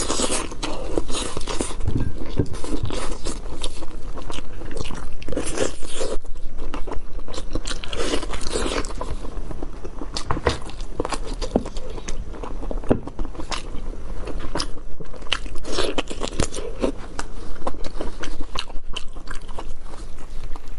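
Close-miked chewing and biting of braised meat torn from the bone, with irregular wet smacks and clicks of the mouth and the tearing of meat.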